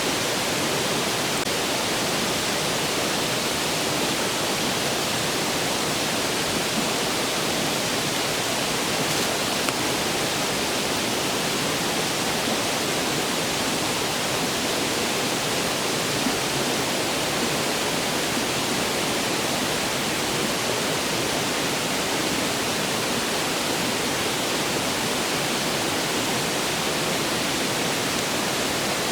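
A clear stream rushing steadily, with a couple of faint pops from the wood fire.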